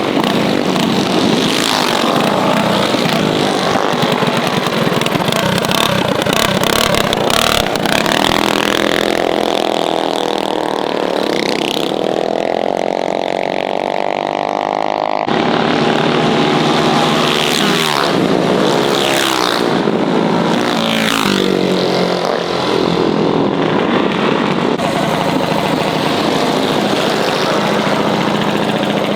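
Mini bike engines running and revving hard, with long rising pitch sweeps as the bikes accelerate and several quick rise-and-fall sweeps as bikes rev or pass. The sound changes abruptly about halfway through.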